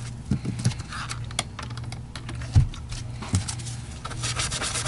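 Scattered clicks and knocks over a steady low hum, the loudest a single thump about two and a half seconds in; a fast, even scraping rhythm starts near the end.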